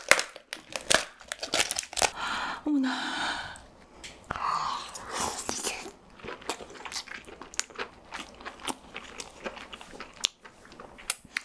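Close-miked chewing and biting of lobster meat: a steady run of short, sharp mouth clicks and smacks.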